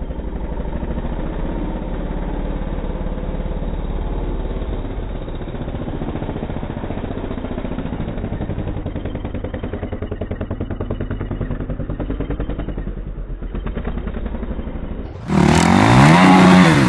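Honda CRF450 dirt bike's single-cylinder four-stroke engine, slowed down to a deep, rapidly pulsing rumble. About fifteen seconds in it switches to normal speed and the engine revs up and down.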